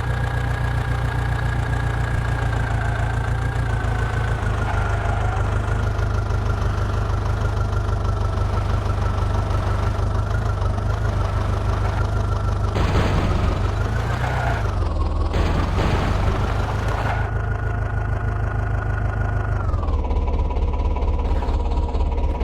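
Tractor engine running steadily, with a few bursts of noise in the middle. Its note drops to a lower steady pitch near the end as the engine slows.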